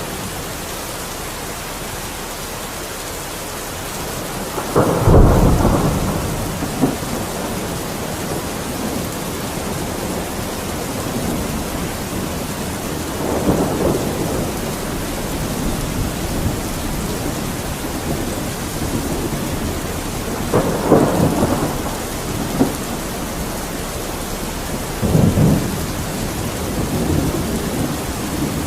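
Steady heavy rain with rolls of thunder rumbling through it four times, the first, about five seconds in, the loudest.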